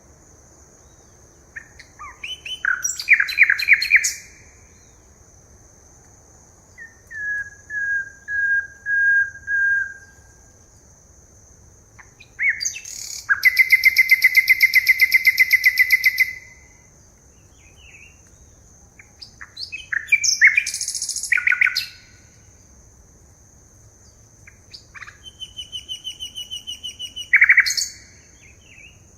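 Forest songbirds singing in turns. There is a series of five short whistled notes, a loud rapid trill lasting about three seconds near the middle, and other quick chirps and trills. A steady high-pitched tone runs underneath.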